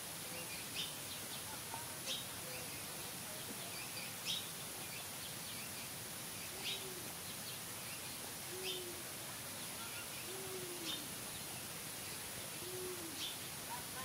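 Birds calling: short high chirps every second or two, and from about halfway through, four soft, low, hooting coos, each rising and falling once.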